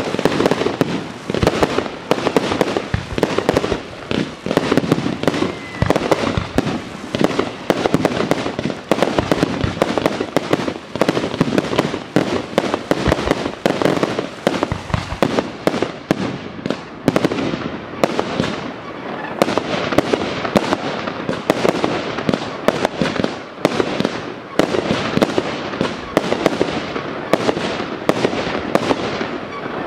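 Aerial fireworks going off in a dense, unbroken barrage: rapid bangs of shells and multi-shot cakes overlapping with crackling bursts, many shots every second.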